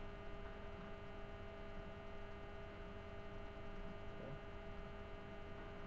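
Steady low electrical hum with a faint hiss underneath, and nothing else prominent.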